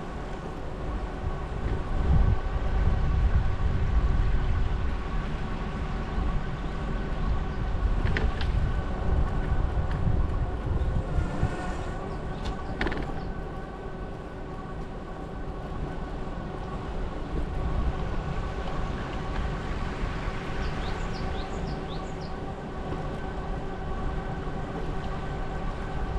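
Wind rumbling on the microphone of a moving bicycle, with a steady hum of several fixed tones underneath and brief sharp ticks about eight and thirteen seconds in.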